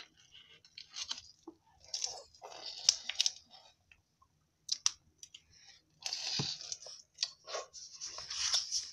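Chewing and crunching on a frozen freeze pop close to the microphone, in uneven spells of bites and chews with short pauses between.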